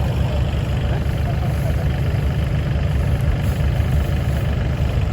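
Diesel dump truck engine running steadily at a low idle, with an even low throb.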